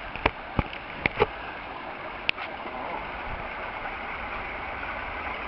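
Steady rush of flowing creek water, with a few sharp knocks in the first two and a half seconds.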